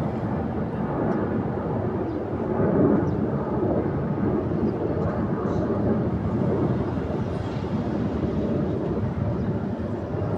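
Airplane engine noise: a steady rumble that swells slightly about three seconds in.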